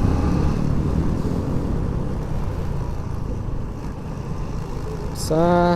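Motorcycle engine and wind noise on the move, a steady low rumble. Near the end a man's voice starts singing.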